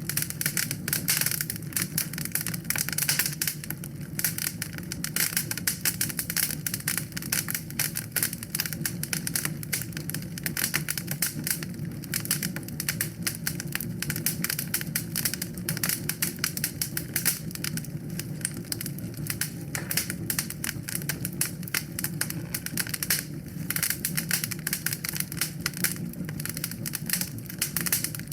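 Wood fire in a fireplace crackling: dense, rapid pops and snaps over a steady low rush of the flames.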